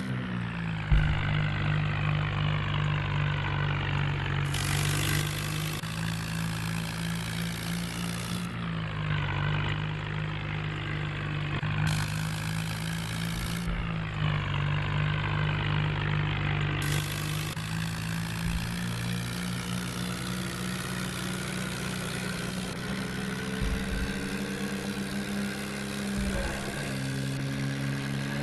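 John Deere tractor engine running steadily, its pitch shifting up or down a few times as the engine speed changes.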